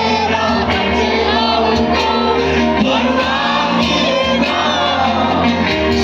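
Live band music with a lead vocal and a crowd singing and shouting along, loud and continuous.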